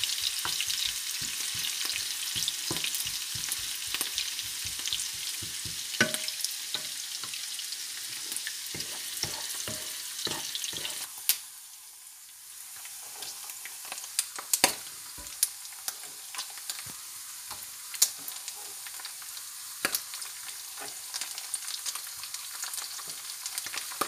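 Onion, garlic and pieces of meat sizzling in hot oil in a wok, with a utensil clacking against the pan as it stirs, about four strokes a second at first. The sizzle quietens briefly about eleven seconds in, then carries on with scattered sharper clacks.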